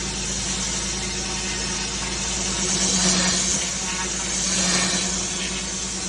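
Pressure washer running: a steady engine hum under the hiss of high-pressure water spray on block paving, the spray swelling louder twice, about three and five seconds in.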